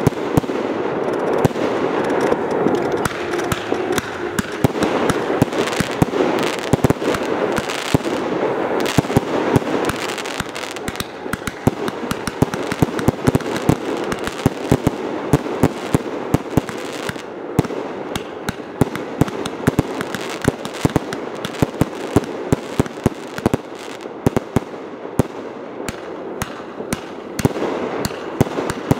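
Fireworks display: a dense, continuous run of rapid sharp bangs and crackling. A steady band of noise underneath is strongest in the first ten seconds, then eases off.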